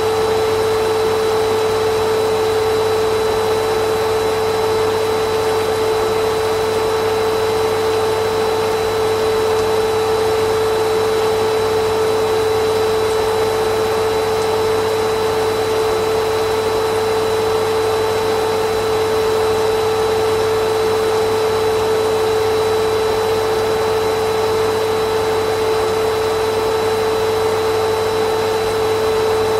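Vacuum cleaner motor running continuously at a steady pitch: a constant rushing hiss with a steady hum, unchanging throughout.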